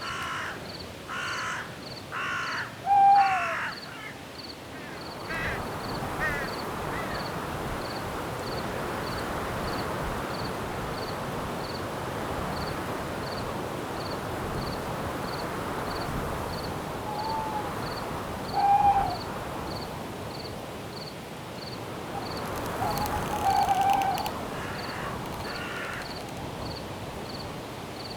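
Night forest ambience: a cricket chirping steadily about twice a second, with wind in the trees rising after about five seconds. A bird gives a quick run of four harsh calls at the start, then calls again a few times later on.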